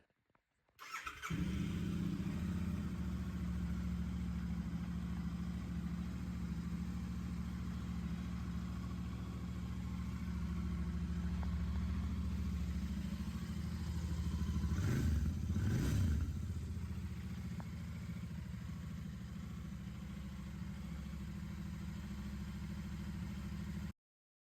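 Royal Enfield Interceptor 650's parallel-twin engine starting just under a second in and settling into a steady idle, with two quick blips of the throttle about two thirds of the way through. The sound cuts off suddenly near the end.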